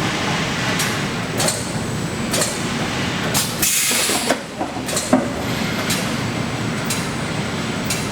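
Production machinery on a motor factory floor running with a steady noise, with irregular sharp clacks about once a second.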